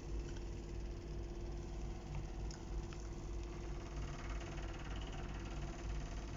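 A steady mechanical hum over a constant low rumble.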